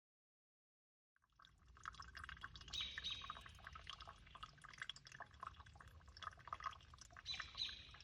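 Birds chirping over a low steady rumble, faint, fading in about a second in.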